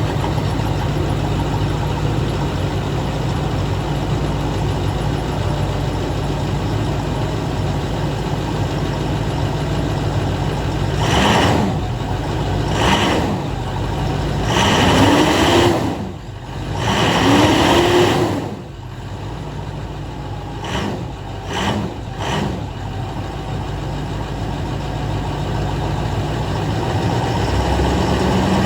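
2011 MaxxForce 7 V8 turbo-diesel in a school bus running cold just after start-up: a steady idle, then four strong revs that rise and fall between about a third and two thirds of the way in, followed by three short blips of the throttle. Engine speed then creeps steadily upward toward a high idle near the end.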